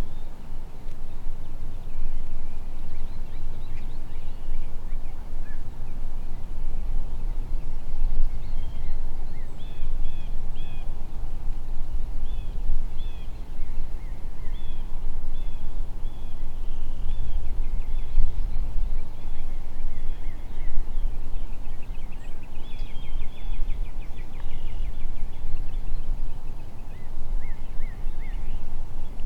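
Repeated short high turkey calls, a few at a time and in a quick run near the end, over a steady low rumble.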